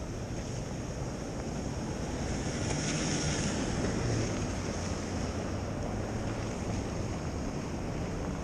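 Steady street noise of traffic and wind: a low rumble under a hiss, swelling louder about three seconds in, as of a vehicle passing on a slushy road.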